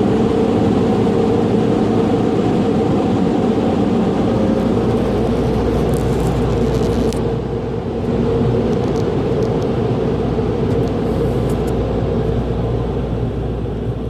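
Car wash air dryers blowing on a vehicle: a loud, steady rush of air with a droning hum, shifting slightly about eight seconds in.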